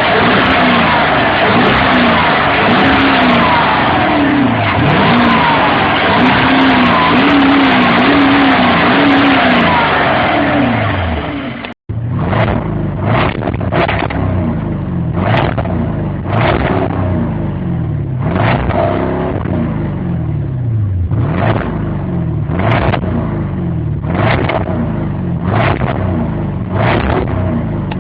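Porsche Cayenne Turbo's turbocharged V8 under way, its note climbing and dropping again and again as it accelerates and shifts through the gears. The sound cuts out briefly about twelve seconds in and comes back quieter, with the engine still rising in pitch and short bursts of noise every second or so.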